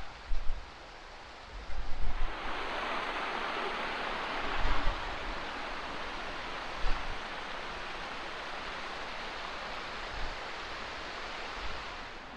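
Steady rush of a mountain stream tumbling down a rocky ravine, getting louder about two seconds in, with a few low thumps of wind buffeting the microphone.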